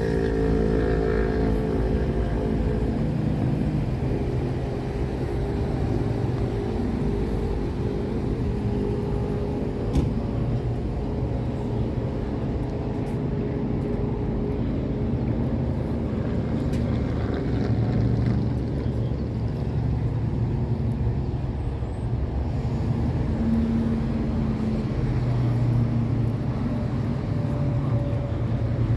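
Car engine running steadily with a low rumble. A single sharp click comes about ten seconds in.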